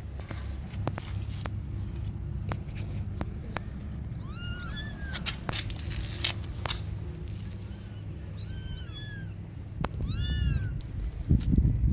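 Kittens mewing for their mother: short, high-pitched cries that each rise and fall in pitch, coming in a few clusters. A steady low rumble runs underneath, and a louder low rustling comes near the end.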